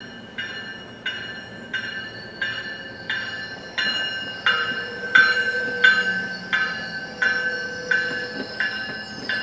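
A railroad bell ringing at a steady pace, about three strikes every two seconds, each strike a sharp clang that rings on. It grows louder about halfway through.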